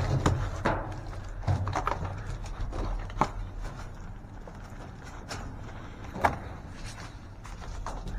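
Irregular knocks and clicks, a few sharper ones standing out, over a low steady hum.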